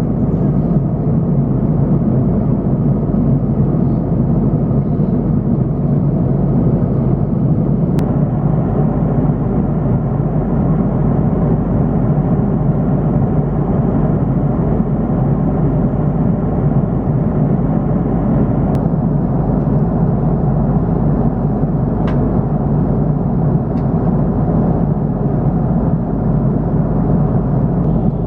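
Steady cabin noise of an Airbus A330-300 airliner: an even low rumble of engines and airflow heard from a passenger seat, with a few faint clicks.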